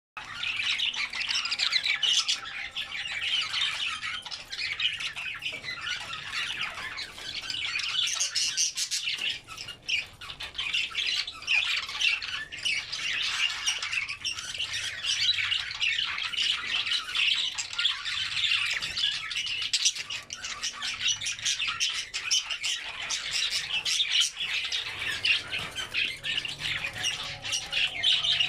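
A group of budgerigars chattering and squawking without a break, many overlapping high chirps.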